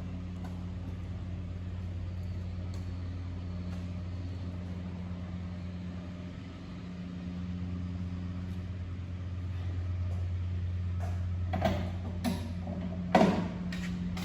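Van's RV-12's Rotax 912 flat-four engine running steadily at low power, an even low hum. A few sharp knocks and clatters come in the last few seconds.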